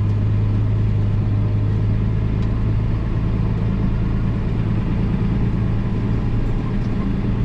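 Massey Ferguson tractor engine running steadily at an even speed, a constant low drone.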